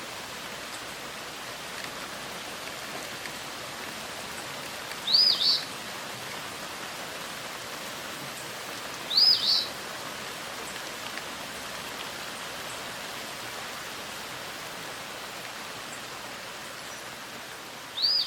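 A bird gives a short, high two-note call three times over a steady hiss of outdoor ambience.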